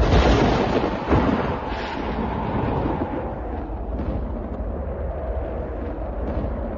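A thunderclap crashes in at the start, a second crack follows about a second in, and the thunder rumbles on steadily.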